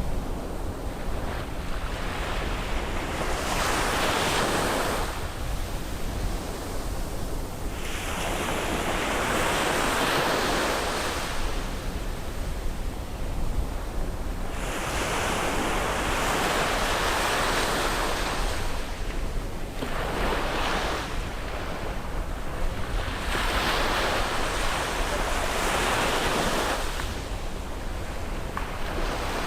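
Sea waves breaking and washing up the beach, one surge of hiss every few seconds that swells and fades, over a steady low rumble.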